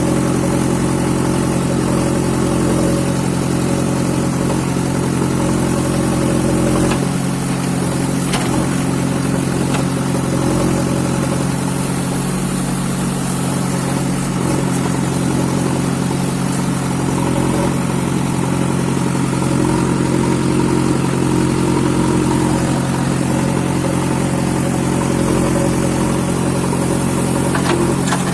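Heavy diesel engine of earthmoving or farm machinery running steadily at a constant speed. Its note changes about seven seconds in and again near the end, and a few light knocks can be heard.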